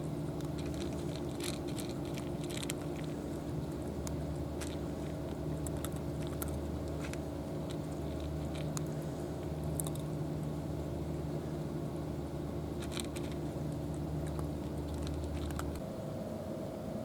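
A steady engine hum with several held tones that shift about sixteen seconds in, with scattered small crunching clicks over it, typical of a cat chewing dry food.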